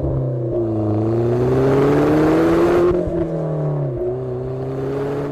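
Toyota GT86's flat-four engine through a Ragazzon stainless steel sport exhaust, pulling under acceleration with its note rising steadily for about two seconds, then easing and dropping sharply about four seconds in before carrying on.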